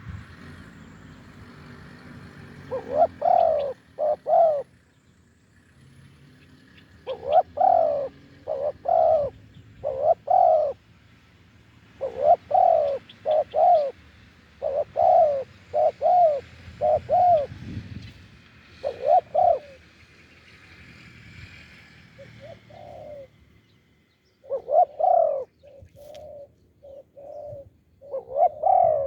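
Spotted doves cooing in short phrases of two to four coos, one phrase every couple of seconds. Near the end comes a run of shorter, quicker coos.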